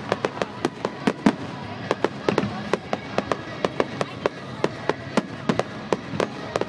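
Fireworks display going off in a rapid, irregular barrage of sharp bangs and crackles, several a second.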